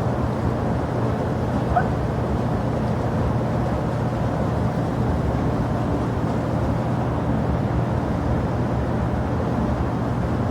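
Steady low rumble of jet aircraft noise at an airport, even throughout, with a short chirp about two seconds in.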